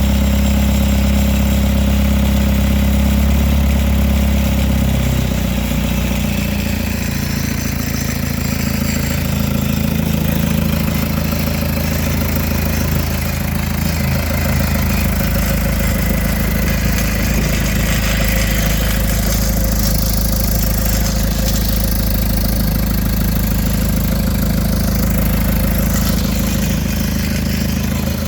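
John Deere 4045 four-cylinder diesel engine running steadily soon after a cold start at about 25 degrees. Its note changes about five seconds in, then holds steady.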